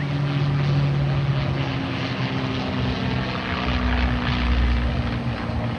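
Propeller aircraft engine of a North American P-51 Mustang running at full display power during a fly-by, its tone sagging slightly in pitch as it passes. A deeper rumble swells about four seconds in.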